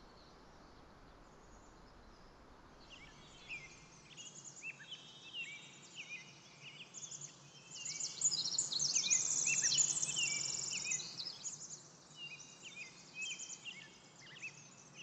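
A chorus of songbirds chirping and trilling over a faint outdoor hiss. The birdsong starts about three seconds in, is busiest around the middle and thins out toward the end.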